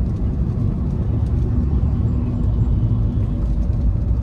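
Cabin noise of a Volkswagen Vento 1.5 TDI on the move: a steady low rumble of road and tyre noise mixed with the four-cylinder diesel engine, heard from inside the car.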